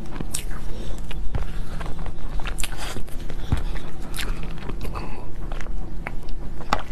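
A person biting into and chewing cake, close to the microphone, with many short, irregular clicks and crackles from the food and mouth over a steady low hum.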